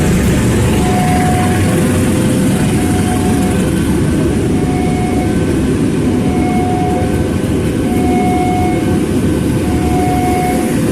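Diesel train running at the station with a steady heavy engine rumble, while a short two-pitch tone repeats about once a second.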